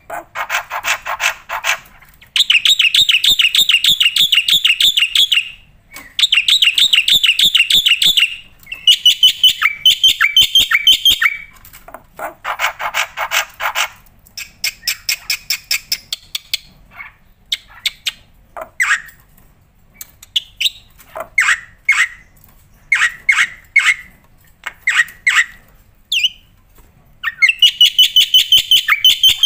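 Black-winged starling singing in long, loud phrases of rapid chattering trills broken by harsh rasping passages. In the middle of the song it gives a run of separate sharp calls, then returns to fast trilling near the end.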